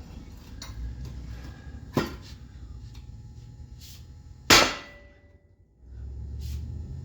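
Big sledgehammer striking the steel frame of a snowplow mount to straighten a twist: a lighter blow about two seconds in, then a much harder one a couple of seconds later that leaves the metal briefly ringing.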